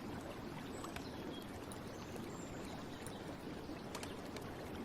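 Steady sound of gently running water, like a stream, with a few faint small splashes.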